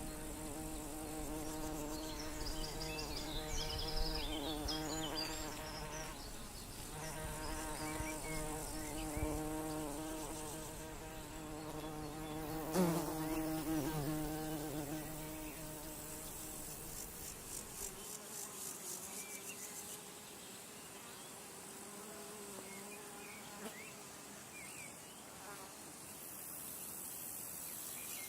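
A flying insect buzzing close by, its hum wavering in pitch. It dips away briefly a couple of times and fades to a fainter hum in the second half. A high, fast-repeating insect trill comes in near the end.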